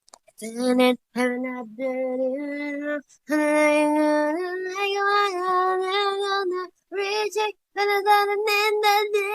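A woman singing alone without accompaniment, in short phrases of held notes separated by brief pauses.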